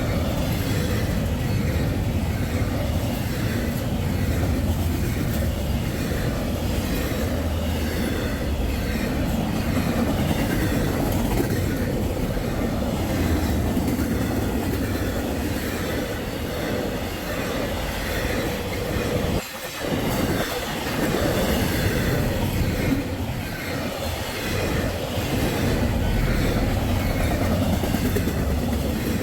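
A train passing close by: a steady rumble of the cars with wheels clattering over the rail joints.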